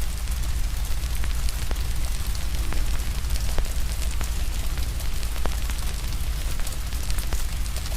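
Wood fire crackling, with many irregular sharp pops over a low steady rumble, and a soft hiss of rain behind it.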